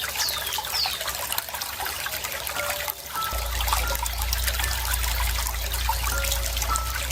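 Running water trickling and splashing steadily, with two short, downward-sliding bird chirps right at the start.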